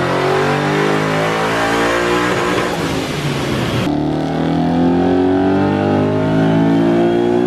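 Ford Mustang engine at full throttle on a chassis dyno, its revs climbing steadily through a dyno pull. The tone changes abruptly partway through, then climbs again.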